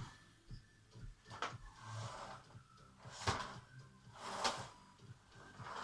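Cat scuffling with a vacuum cleaner: a handful of short, sharp hissing swishes about a second apart, the loudest two near the middle.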